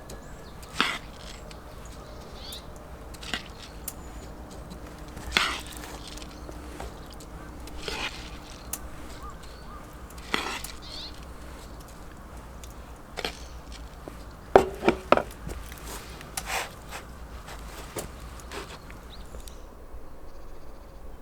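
Irregular knocks and clicks, as of objects being handled and set down, a second or two apart, with a quick cluster of louder knocks about two-thirds of the way in, over a steady low hum.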